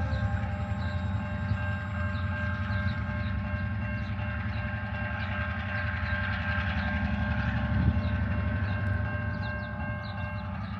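TasRail diesel locomotive train running past, a steady low engine rumble with a whine over it and regular light clicks from the wheels. There is a single knock about eight seconds in, and the sound fades a little near the end.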